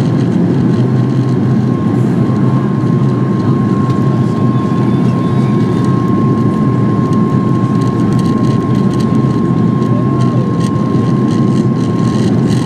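Steady cabin noise of a Boeing 737 MAX 8 under way: the rush and drone of its CFM LEAP-1B jet engines and airflow, with a thin steady whine held throughout.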